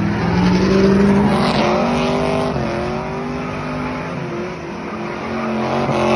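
Classic muscle car's V8 engine revving hard during a burnout: the revs climb in the first second, are held high with short dips, and climb again near the end.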